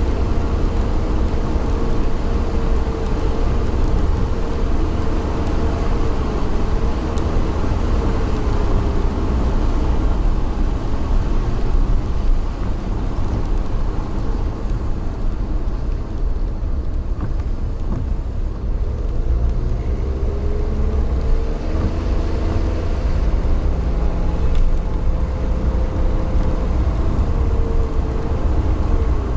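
A vehicle travelling at speed: a steady low rumble with an engine tone that wavers and glides up and down in pitch.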